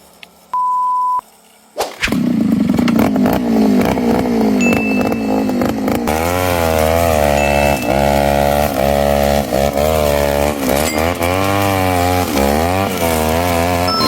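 A short beep, then a Reload 543 VIP brush cutter's small two-stroke engine comes in about two seconds in and runs loudly, its pitch rising and falling over and over as the throttle is worked while cutting grass.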